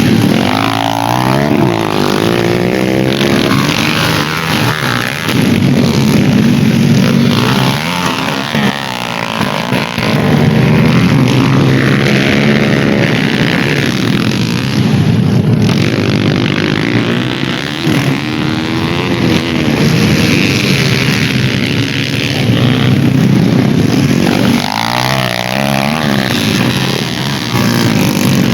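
Dirt-bike engines revving hard through a race, their pitch climbing and dropping repeatedly as the bikes accelerate and shift.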